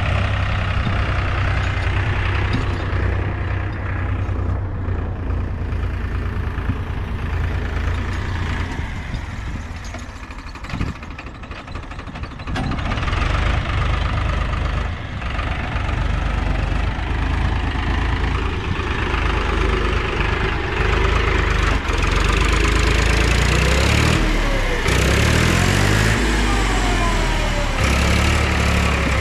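Diesel engines of a JCB 3DX backhoe loader and a Powertrac tractor running steadily, with a brief dip a little before the middle. In the last few seconds the revs rise and fall repeatedly.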